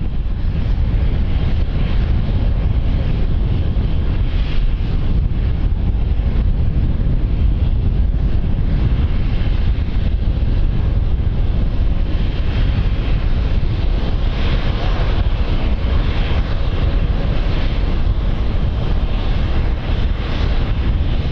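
Wind buffeting the microphone: a loud, steady, rough rumble.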